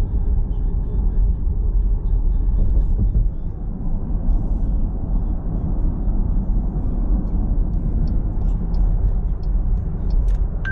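Steady road and engine noise of a moving car heard from inside the cabin, a constant low rumble.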